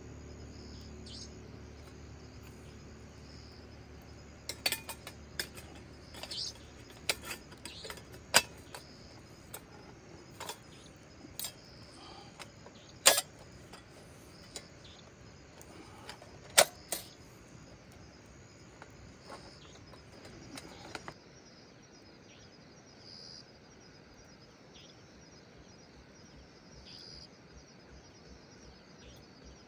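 Crickets and other night insects chirping faintly, with sharp clicks and knocks scattered through the first two-thirds, two of them much louder than the rest.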